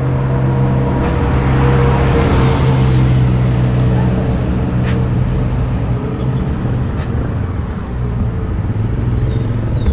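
Road traffic with a motor vehicle's engine running steadily close by, its low hum holding a constant pitch. Two short sharp clicks cut through, about five and seven seconds in.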